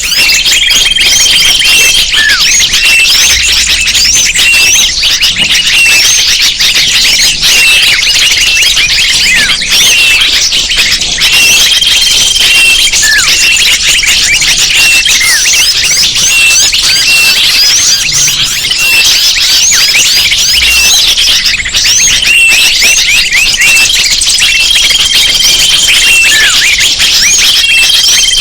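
Dense chorus of many small songbirds chirping and twittering over one another, played as a bird-lure recording. A short held whistle-like note recurs a few times.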